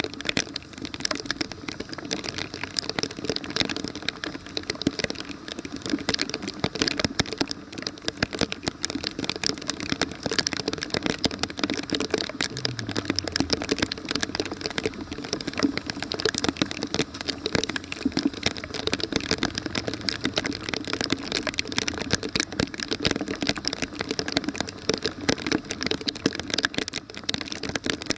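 Heavy rain pattering on hard surfaces, a dense, even patter of drops throughout. A low falling hum passes briefly about halfway through.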